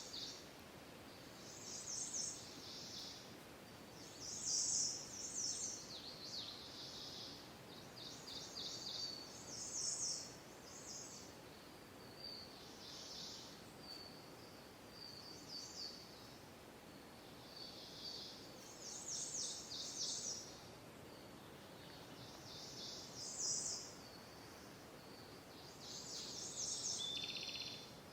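Songbirds singing in a forest chorus: short, high, rapidly trilled phrases repeat every one to three seconds at varying pitches, over a steady low background hiss.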